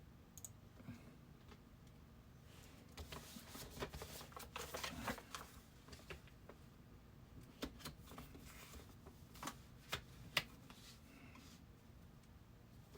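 Faint handling noise: scattered clicks and rustles, busiest from about two and a half to six seconds in, then a few single clicks, over a low steady hum.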